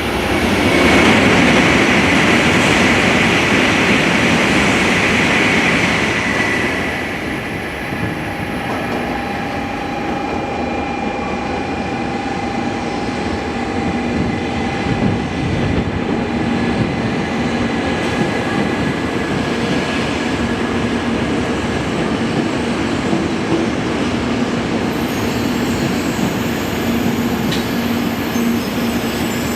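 Shinkansen train running on the line: a loud rushing noise for the first six or seven seconds that eases off, then steady rolling noise with a few thin whines through to the end.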